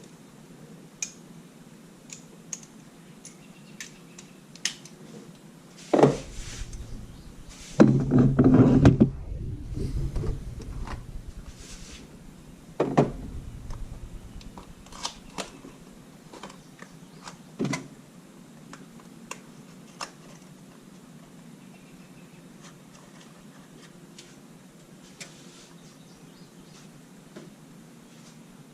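Tools and parts being handled during hand work: scattered clicks and knocks, with a louder clatter about eight to nine seconds in and single sharper knocks about six and thirteen seconds in.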